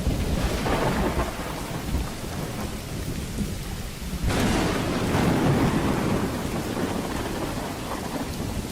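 Steady rain with rolling thunder from a thunderstorm. A louder thunder peak hits suddenly about four seconds in and rumbles on.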